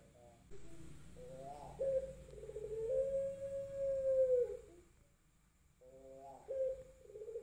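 Male puter pelung dove cooing: a few short rising notes lead into one long drawn-out coo held for about two and a half seconds. A second coo begins about six seconds in.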